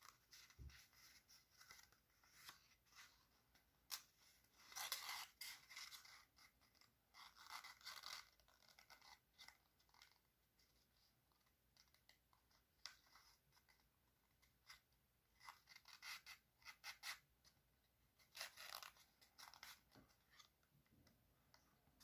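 Faint crinkling and scraping of a sheet of paper being worked by hand, in short bursts with pauses between them.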